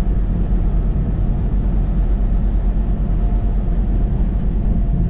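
Steady low rumble of a truck driving on the highway, engine and tyre noise heard from inside the cab.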